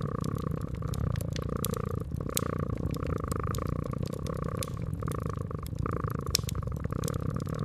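Domestic cat purring steadily in a slow in-and-out cycle, with scattered crackles and pops of a wood fire.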